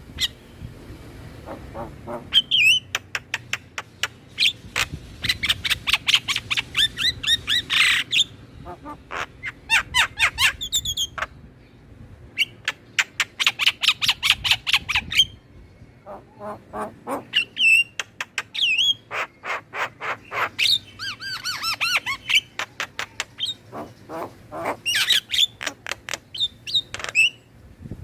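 Starlings (jalak) singing: bursts of fast, harsh chattering notes and clicks mixed with short sliding whistles and squawks, separated by brief pauses.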